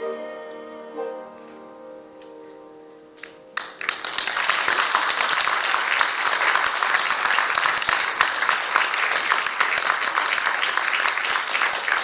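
Final piano chord ringing and dying away, then an audience breaks into applause about three and a half seconds in, much louder than the piano, and keeps clapping.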